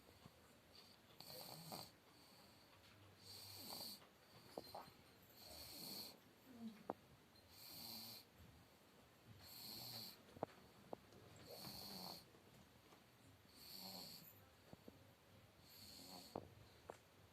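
Slow, regular breathing close to the microphone, a soft breath about every two seconds, with a few faint clicks between breaths.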